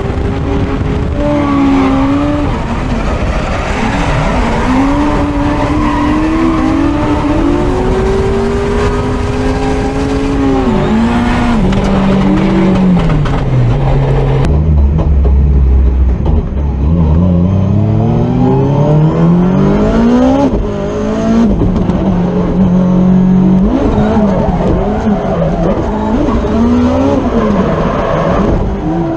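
Drift car engine revving hard on the limiter and throttle, its pitch swinging up and down, with tyres squealing under the slide. About halfway through the engine pitch climbs steadily several times as it pulls hard through the revs.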